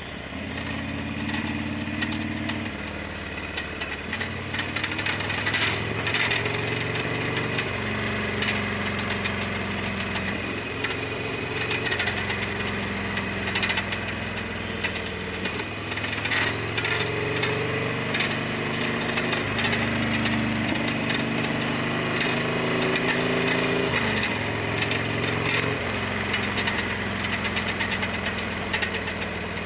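Harley-Davidson Sportster XL1200R V-twin engine running under way, its pitch stepping up and down every few seconds with throttle and gear changes, with scattered light clicks and rattles over it.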